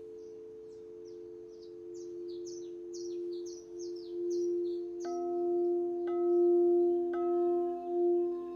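Crystal singing bowls ringing with long, steady, pulsing tones. Three further strikes, about five, six and seven seconds in, add higher ringing notes. In the first half a bird sings a quick run of short, high, descending chirps over the bowls.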